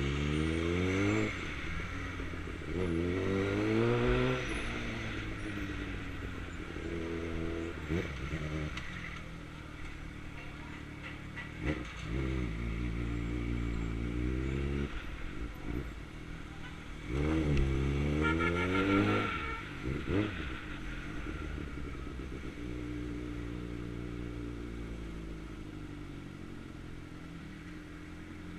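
Suzuki GSX-R600 (2009) inline-four engine pulling hard several times, its pitch climbing steeply and dropping back at each shift or roll-off, between stretches of steadier, lower running.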